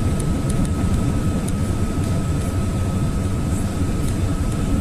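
GAZelle van's engine and road noise heard from inside the cab while driving at highway speed: a steady low rumble, with a thin steady whine above it.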